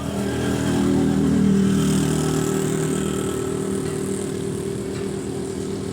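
Ford 4610 tractor's three-cylinder diesel engine running, growing louder over the first second and a half and then easing off slowly.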